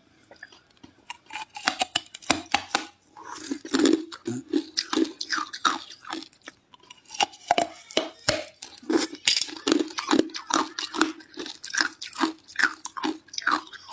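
Ice being crunched and chewed close to the microphone: a fast, irregular run of sharp crunches, starting about a second in.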